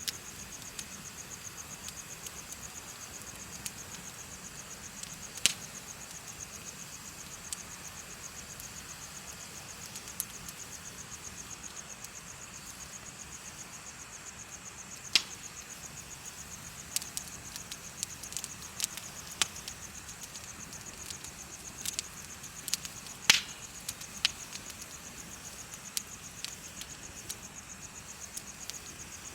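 Insects chirping in a fast, even trill that never stops, with a bonfire's wood crackling in sharp, scattered snaps and pops, the loudest pops about halfway and about three-quarters of the way through.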